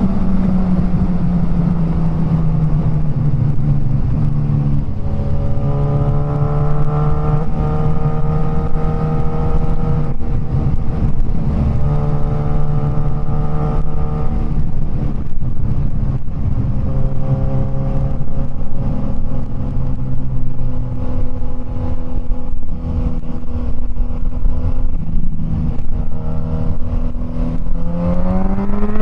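Suzuki GSX-S1000's inline-four engine, through an aftermarket Firetong Willy Made exhaust, heard from the rider's seat over wind rush. The revs ease off over the first few seconds and hold a steady cruise, then climb quickly near the end as the bike accelerates.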